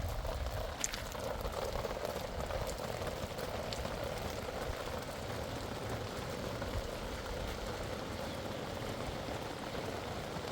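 Steady rain falling, an even hiss with a few light taps.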